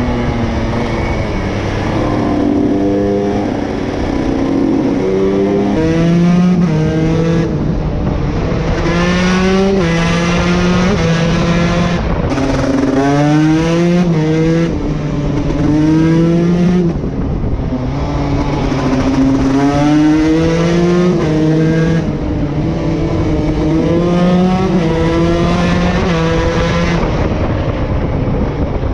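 KTM SX 150 two-stroke single-cylinder motocross engine being ridden hard, its pitch repeatedly climbing and dropping as the throttle opens and closes through the gears.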